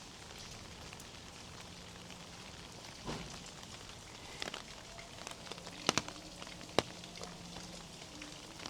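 Steady rain falling, a fine haze of drops hitting surfaces, with a few sharper, louder taps about three, four and a half, six and seven seconds in.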